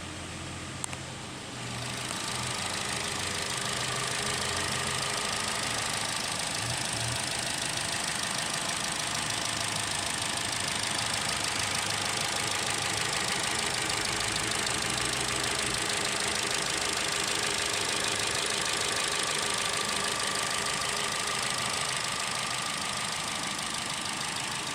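Holden Barina engine running steadily. A click just under a second in, and the sound grows louder and fuller about two seconds in.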